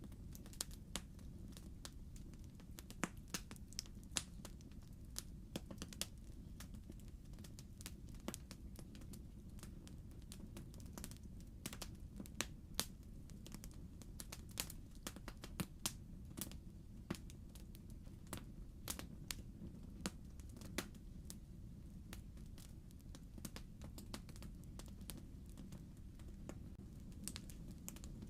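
Wood fire in a fireplace crackling: a steady low rumble of the burning logs with frequent sharp, irregular pops and snaps.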